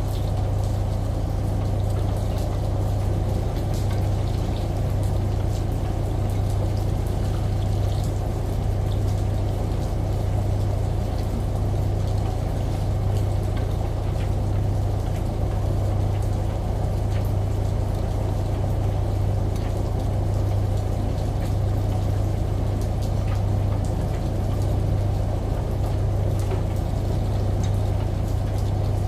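Steady layered mix of shower water and rain over the constant low hum of a washing machine running, with scattered light drop ticks.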